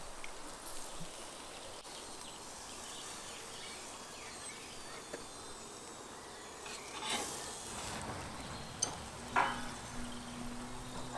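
Shashlik skewers sizzling over charcoal: a steady low hiss with a few faint clicks.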